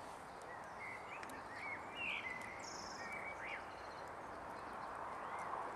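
Small birds giving short chirping calls that slide up and down, several in quick succession in the first half and one more near the end, over a steady outdoor background hiss.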